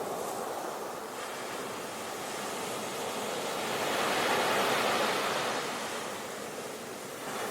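Ocean surf: waves breaking and washing on a beach, swelling to a peak about halfway through and then receding.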